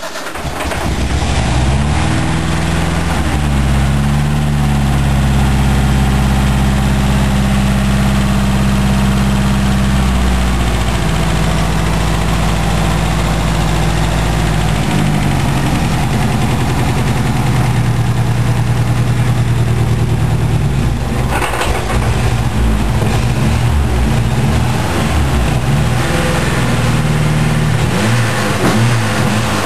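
1978 Ford Pinto's 2.3-litre turbocharged four-cylinder engine running on its first start-up, its pitch rising in the first couple of seconds and then holding a steady idle. The speed shifts several times and turns uneven near the end: a rough-running first start with the ignition timing not yet set.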